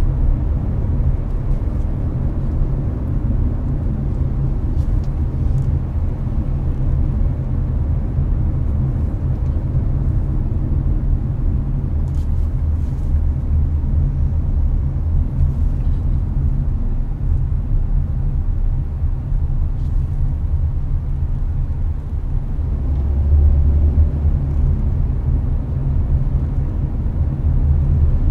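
Inside a Hyundai Avante cruising on an expressway: a steady low rumble of road, tyre and engine noise, with the air conditioner's fan blowing. The rumble swells a little near the end.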